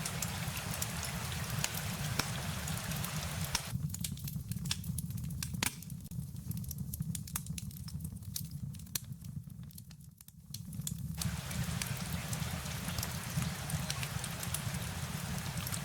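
Rain-and-fire ambience: a steady rain hiss over a low rumble, with scattered sharp crackling pops. From about four seconds in to about eleven, the hiss drops away and leaves only the rumble and pops, then comes back.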